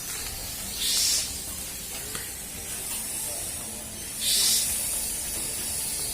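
Insecticide fogging machine spraying: a steady hiss, with two louder bursts of hissing spray, one about a second in and one about four seconds in.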